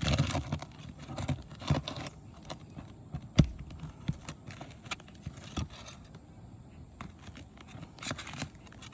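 A roofing nail being worked loose from under asphalt shingles: irregular knocks, clicks and scraping of the tool, with crinkling of the shingle, and one sharp knock about three and a half seconds in.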